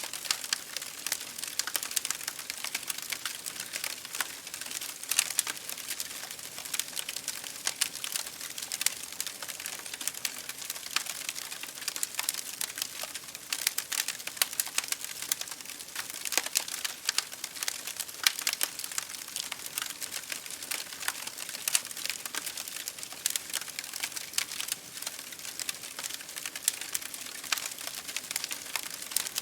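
Campfire crackling: many small irregular pops and snaps of burning wood over a steady soft hiss.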